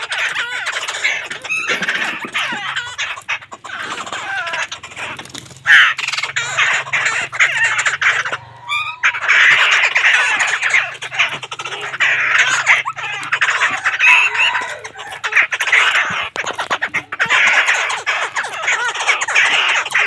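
Caged black birds calling loudly and almost without pause, many quick overlapping notes, with a short break about nine seconds in.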